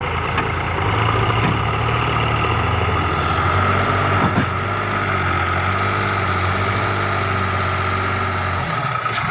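Tractor's diesel engine running steadily with a deep, even drone, and its low note shifts near the end.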